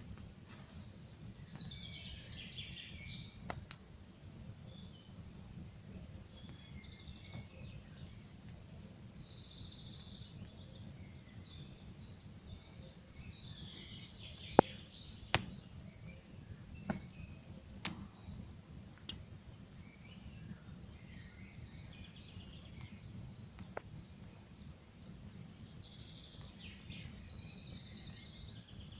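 Campfire crackling with scattered sharp pops, the loudest about halfway through, over a steady low rush, while birds sing in repeated phrases.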